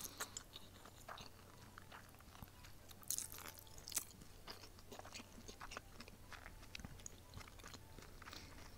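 A person chewing a mouthful of stir-fried somen noodles in green-onion oil: faint, scattered wet mouth smacks and clicks, a little louder about three and four seconds in, over a steady low hum.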